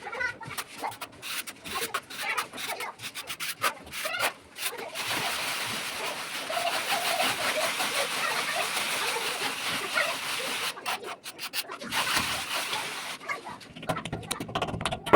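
Plastering trowel scraping and rubbing wet cement plaster, in quick irregular strokes with a steadier stretch of rubbing in the middle.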